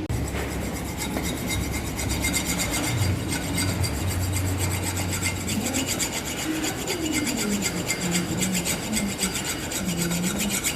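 Sandpaper rubbed hard back and forth by hand over a metal drive shaft in quick, steady strokes, smoothing the damaged shaft.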